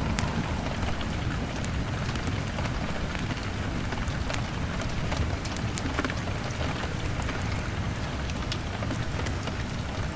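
Heavy rain beating steadily on a window pane over a deep low rumble, with scattered sharp crackles and pops from a burning log fire.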